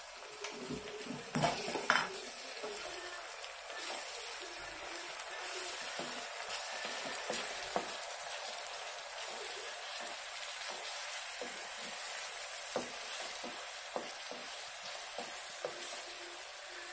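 Sliced shallots and ginger-garlic paste sizzling in plenty of hot sesame oil in a pan, stirred with a spatula that scrapes and knocks against the pan, with a louder knock about two seconds in.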